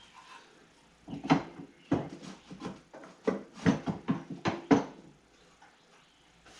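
A dog barking, a quick run of about eight barks over some four seconds.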